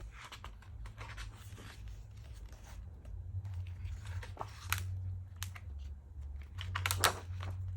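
Photobook pages being turned and handled: soft paper rustling with a few sharper crinkles about five and seven seconds in, over a steady low hum.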